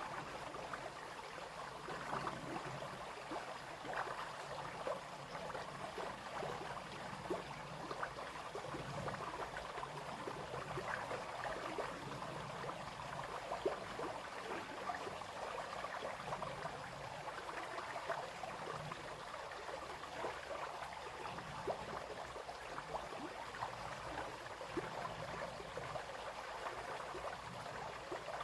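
Small brook babbling and splashing steadily over stones, a constant wash of water noise dotted with small splashes.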